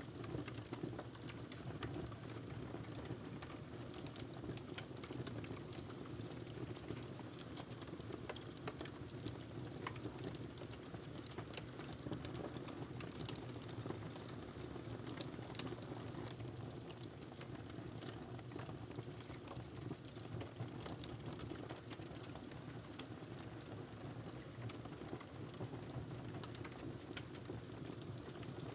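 Wood fire crackling in a fireplace: scattered small pops and snaps over a steady low rumble.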